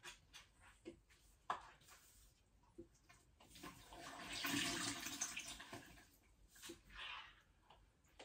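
Water splashing and running for about two seconds in the middle, among scattered light knocks and clicks.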